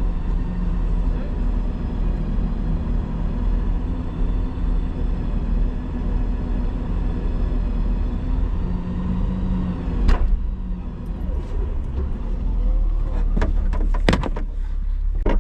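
Vehicle engine running steadily, with a sharp knock about ten seconds in and several short clicks and knocks near the end.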